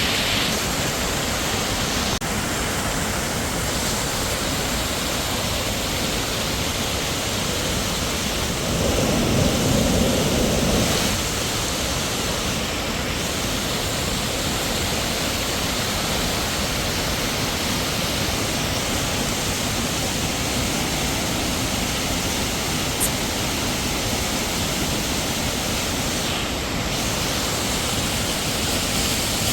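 Steady rush of a waterfall's falling water, swelling louder for about two seconds near the middle.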